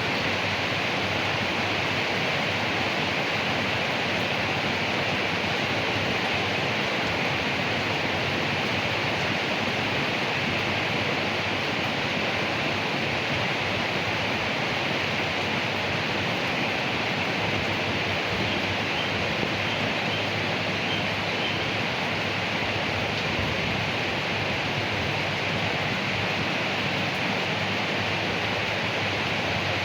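Rain falling steadily on leaves, an even wash of drops with no breaks or changes.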